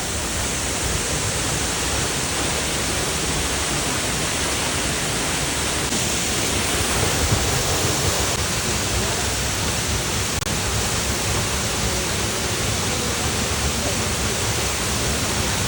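Waterfall: falling water rushing steadily as a dense, even roar of noise.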